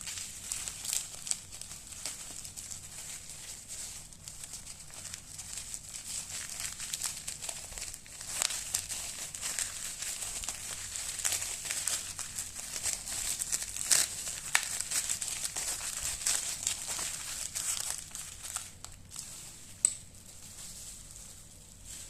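Packing material crinkling and rustling as it is handled, with irregular sharp crackles and a louder snap a couple of seconds before the end.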